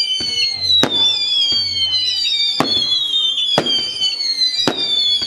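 Fireworks exploding: four sharp bangs roughly a second apart, over a high thin tone that slowly falls in pitch.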